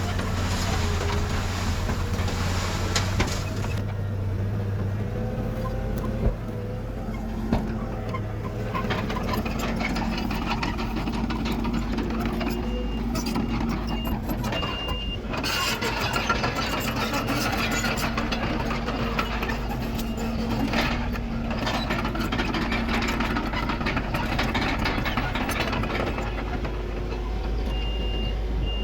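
Diesel engines of earthmoving machinery, a bulldozer and dump trucks, running steadily under load. A reversing alarm beeps briefly about halfway through and again near the end.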